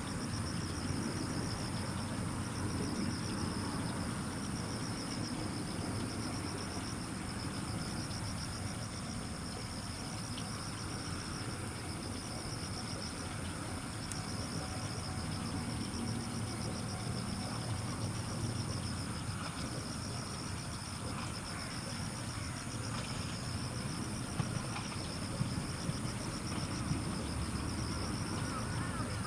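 Steady chorus of insects, a high pulsing trill with a second, higher steady buzz, over a low constant rumble.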